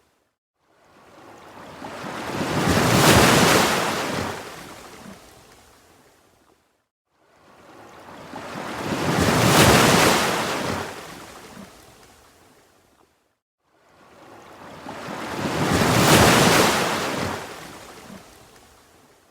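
Ocean waves washing in: three swells, each rising and then fading away, about every six and a half seconds, with a brief hush between them.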